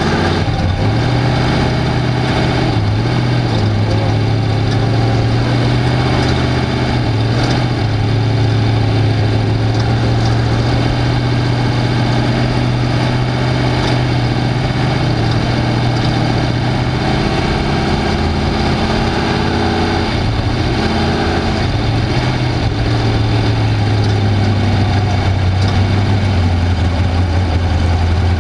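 Off-road race car's engine running loudly at a steady pitch, dropping slightly in pitch near the end.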